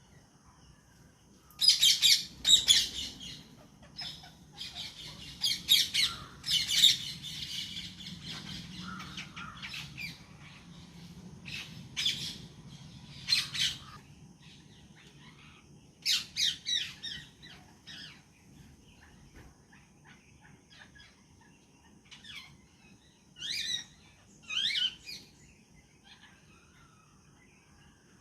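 Parrots giving harsh, high-pitched squawks and screeches in several bursts with quieter gaps between, the loudest bursts in the first third and a last pair near the end.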